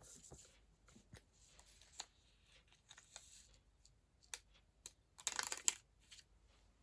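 Faint handling of paper and card: soft rustles and small taps and clicks, with a louder rustle of paper sliding about five seconds in.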